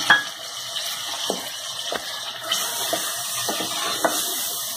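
Chicken with tomato paste and spices sizzling in hot oil in a cooking pot, a steady hiss, with several clicks and knocks of a spatula stirring against the pot.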